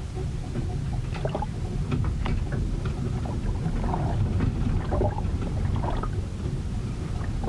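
Storm aboard a ship: a constant low rumble with scattered short splashes and knocks throughout.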